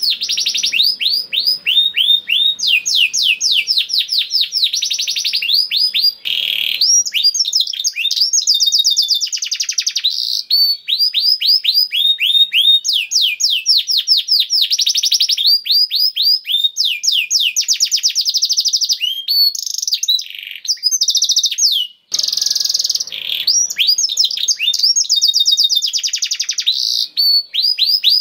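Male domestic canary singing a long, continuous song of fast rolling trills, phrase after phrase of rapid repeated high notes with only brief breaks.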